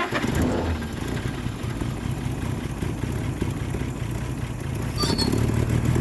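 1944 Clark Planeloader forklift engine running just after catching on a cold start, on a little choke. It runs unevenly at first and settles into steadier running about five seconds in, with a short click near then.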